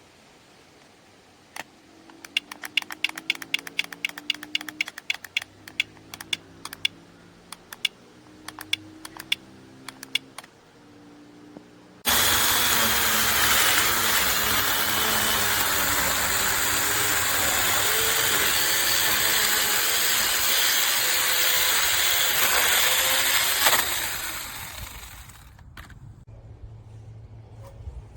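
Faint rapid clicking, then a cordless brushless mini chainsaw starts abruptly about twelve seconds in, runs steadily for around twelve seconds and winds down.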